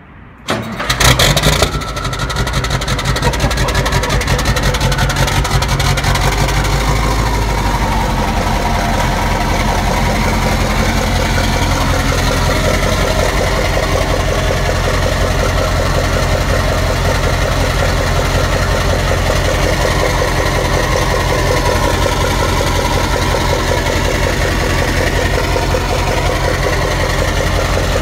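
Straight-piped Mack E9 V8 diesel of a Renault Magnum AE 560 truck, running with no mufflers, cold-started: it cranks briefly and catches about a second in with a loud flare. It then settles into a loud, steady idle, the low note changing a little a few seconds later as the cold idle settles.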